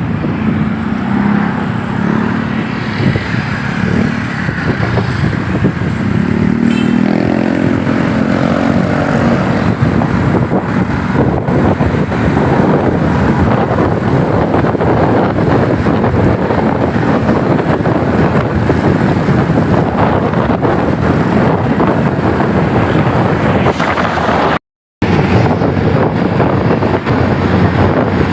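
Motorcycle riding at speed: the engine runs under heavy wind rush on the rider's microphone, with the engine note rising a couple of times in the first third. The sound cuts out completely for a moment near the end.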